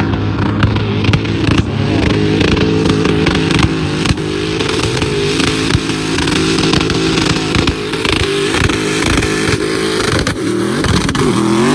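Vehicle engine running hard at steady high revs, with frequent knocks and rattles over it; the revs dip and climb again near the end.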